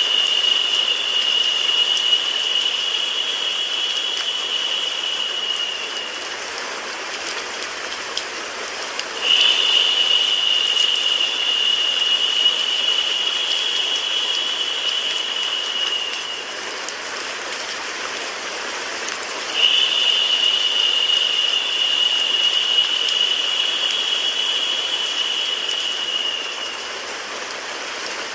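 Steady rain mixed with white noise, an even hiss. A higher, narrower hiss comes in three times, each time for about seven seconds, lifting the level a little.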